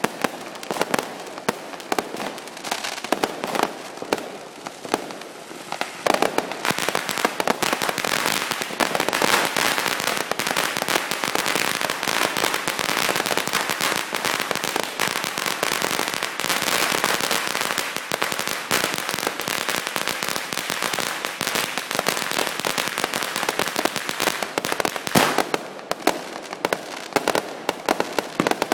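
Aerial fireworks going off in a rapid, continuous barrage of pops and crackles. The barrage gets denser and louder about six seconds in, and there is one especially loud bang near the end.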